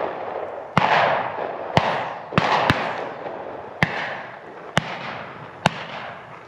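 A rapid string of shotgun shots from several hunters firing at flushed pheasants, about seven reports in six seconds at uneven intervals. Each shot is a sharp crack that trails off in a long echo.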